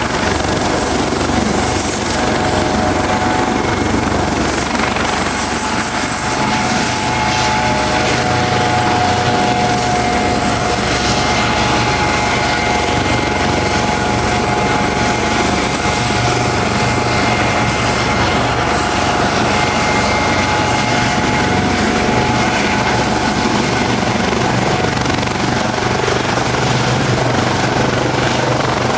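Helicopter running close by, a loud, steady rotor and engine sound with a high whine held throughout.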